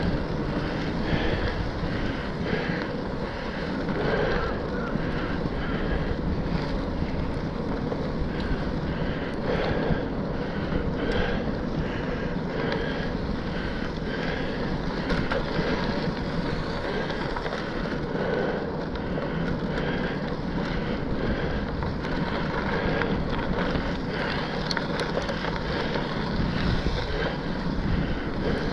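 Steady wind rush on the microphone of a moving bicycle, mixed with the hiss of its tyres rolling over wet ground.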